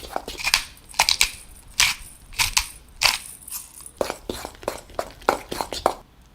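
Food being worked with a kitchen utensil: an irregular run of sharp crunching strokes, about two to three a second, stopping near the end.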